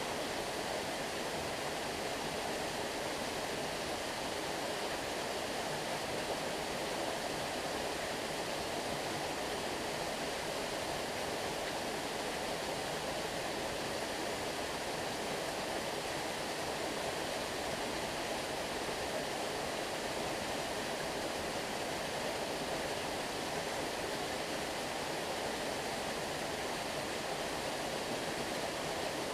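Water of a stream flowing, a steady, even rush with no breaks or separate splashes.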